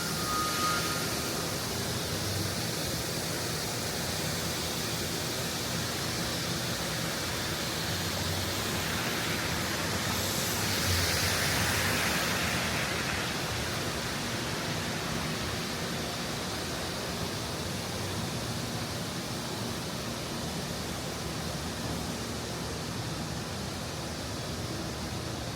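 Steady rushing noise of a snowy city street, swelling for a couple of seconds about ten seconds in.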